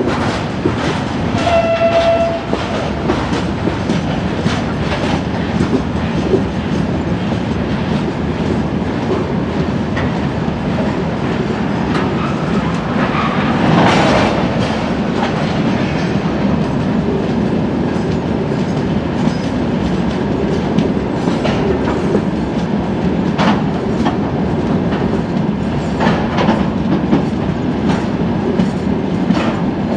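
Freight train rolling past at steady speed, its hopper and open gondola wagons rumbling and clicking over the rail joints. A brief high tone sounds about two seconds in.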